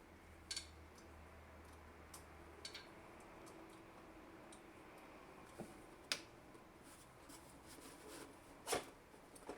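Faint room tone with a few scattered light clicks and taps, about four of them sharper, from tools and metal parts of a drill press being handled and tightened during assembly.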